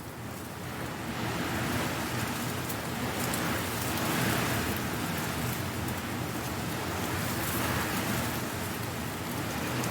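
Strong wind gusting through dry leaves, the leaves rustling and crackling as they blow; the sound swells and eases a few times with the gusts.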